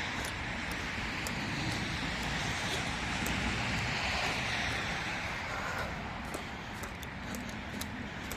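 Street ambience of road traffic: a steady wash of vehicle noise that swells about halfway through and fades again, as a car passes.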